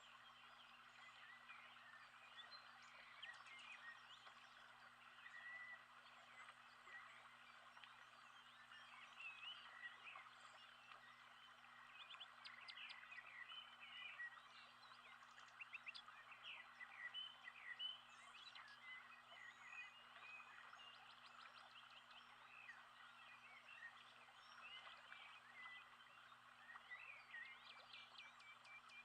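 Faint recorded nature ambience: many birds chirping and twittering in short calls over a steady background hiss, with a low hum underneath.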